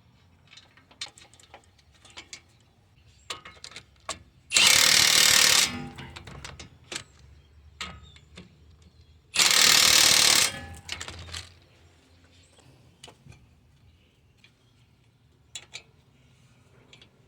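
Impact wrench running in two bursts of about a second each, around five and ten seconds in, driving a nut tight. Scattered clicks and knocks of tools being handled between them.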